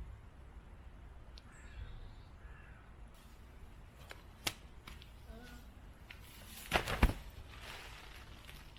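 Woodland birds calling, with a sharp click about four and a half seconds in and a quick cluster of loud knocks or cracks around seven seconds.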